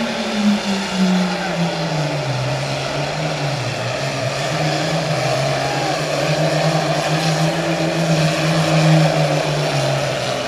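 Outlaw super farm pulling tractor's turbocharged diesel engine running hard under load on the track, a loud continuous drone. The pitch sags about three seconds in, then holds steady.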